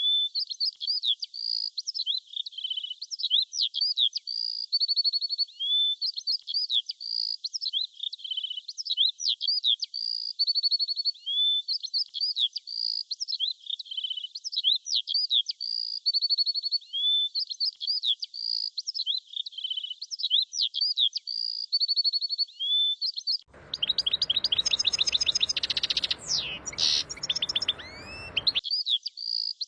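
Small songbirds chirping and trilling continuously in short, high, repeated phrases. About 23 seconds in, a fuller, denser burst of rapid chirps over a rushing background noise lasts about five seconds, then the chirping goes on as before.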